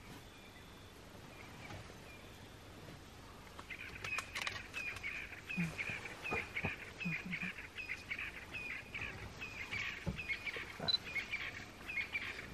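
A bird calling over and over, short high notes each dropping at the end, about three a second. It starts about four seconds in and keeps going steadily, with a few sharp cracks among the calls.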